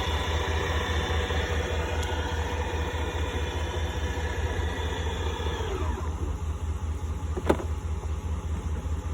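Electric motor of a powered Asento swivel seat lowering the seat into the truck's cab. It runs as a steady whine that winds down and stops about six seconds in, followed by a single sharp click. A low steady rumble runs underneath.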